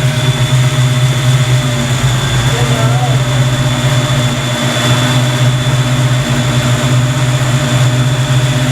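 Fox-body Mustang engine idling steadily at about 800 rpm, with its dual electric radiator fans running. The idle is smooth, with no banging.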